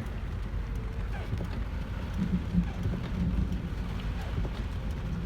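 Steady rain falling on a car, heard from inside the cabin, with scattered drop ticks over a low rumble.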